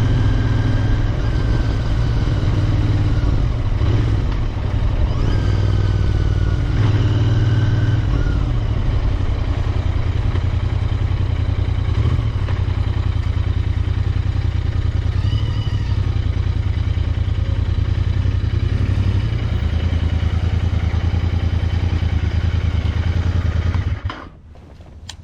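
Royal Enfield Interceptor 650's 648 cc parallel-twin engine running steadily with a low, even exhaust note. The sound cuts off abruptly near the end.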